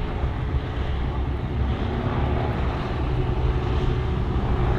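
Boat engines running with a steady low drone, with some wind noise on the microphone.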